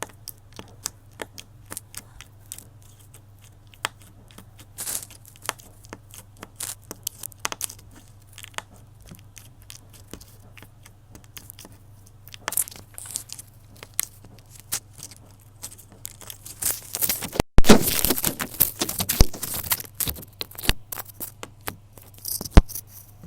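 Irregular sharp clicks and crackles from material being handled. About two thirds of the way through they thicken into a dense, loud stretch of crackling lasting a few seconds.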